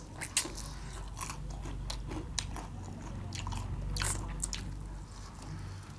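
Close-miked chewing and biting on roast quail meat, with irregular wet mouth smacks and small crunches.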